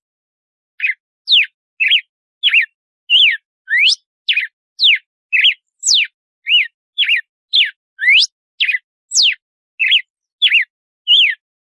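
Red-cowled cardinal (galo-de-campina) singing its 'açoite' song: a long, regular run of clear whistled notes, about two a second, each a quick sweep up or down in pitch, starting about a second in.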